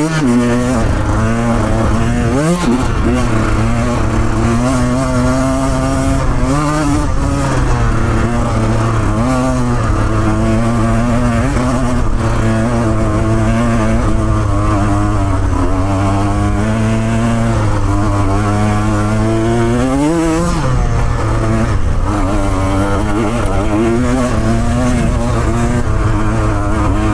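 Motorcycle engine working up a steep, loose dirt hill, its revs rising and falling with the throttle and a sharp rev about 20 seconds in.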